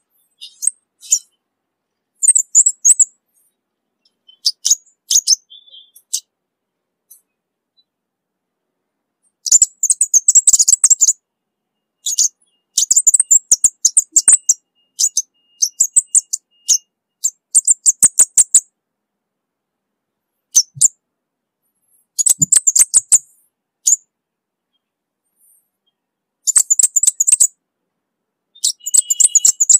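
Orange-bellied flowerpecker calling: bouts of rapid, high-pitched ticking chips, each bout about a second long, separated by short pauses.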